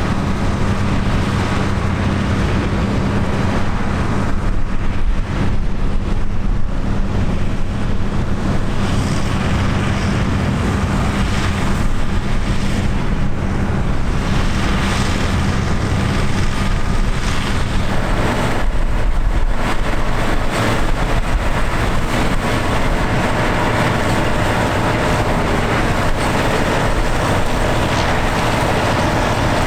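Vintage tractor engine running steadily with a low, even hum; the engine note changes about two-thirds of the way through.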